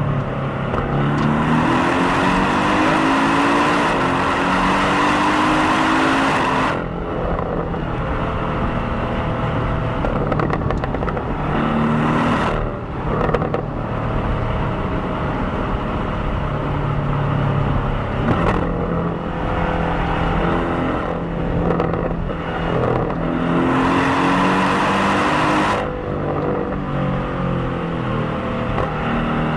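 Porsche 718 Cayman's stock-exhaust, turbocharged 2.0-litre flat-four engine, driven on the road, its pitch rising under hard acceleration. There are two strong pulls, about a second in and about 23 seconds in, with the pitch dropping at gear changes and lifts off the throttle between them, and it climbs again near the end.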